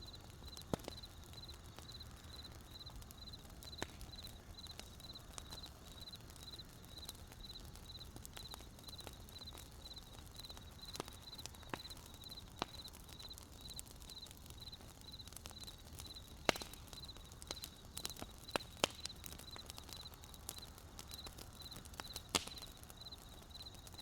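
Wood campfire crackling, with sharp pops now and then, the two loudest in the second half. Under it a cricket chirps steadily, about twice a second.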